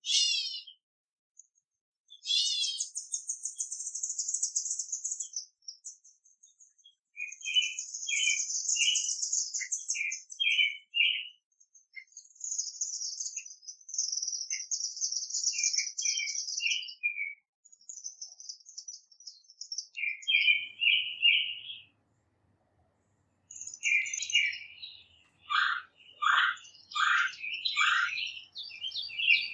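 Several wild songbirds singing and chirping: high, buzzy trills of two to three seconds each, with shorter chirps below them, and a quick run of downward-sliding notes near the end.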